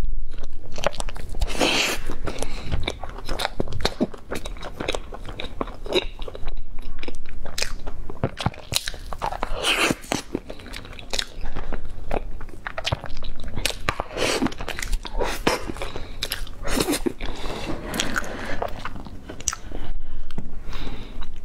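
Close-miked eating sounds: bites and chewing of a soft layered pastry, with many short mouth clicks and smacks.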